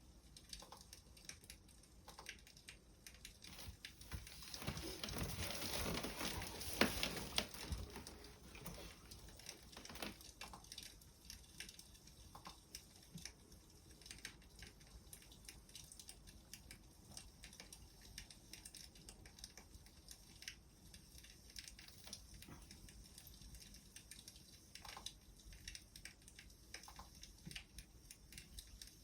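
Wood fire crackling softly with scattered small pops, growing louder and denser for a few seconds about five seconds in.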